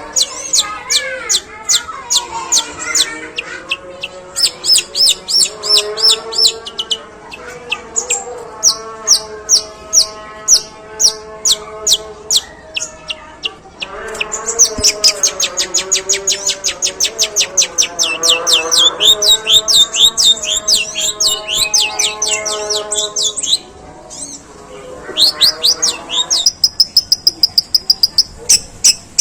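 Long-tailed shrike singing long, fast runs of sharp, high chirps that imitate the calls of the Eurasian tree sparrow (burung gereja). Lower, wavering notes run underneath.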